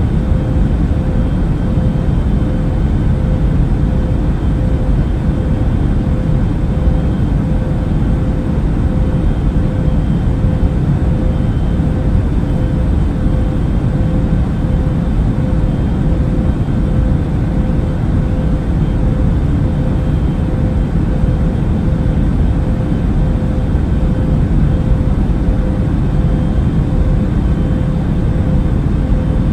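Airliner cabin noise in flight: a steady, deep rumble of engines and airflow with a constant hum tone over it.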